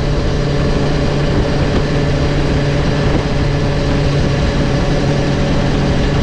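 Sport motorcycle engine running steadily at an even, low pitch, without revving up or down.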